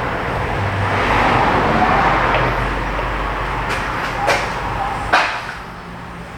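A steady rushing noise with a low rumble, lasting about four seconds and fading off, and three sharp clicks near its end.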